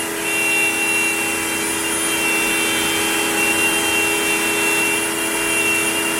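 Onefinity CNC router spindle running at a steady pitch while it carves a wooden workpiece.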